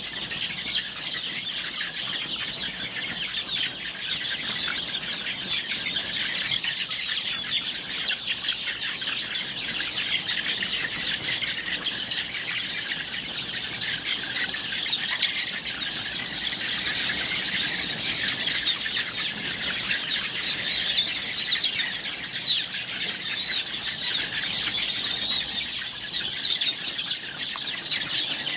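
A large flock of BV300 layer chickens calling all at once: a dense, continuous chatter of overlapping clucks and cheeps.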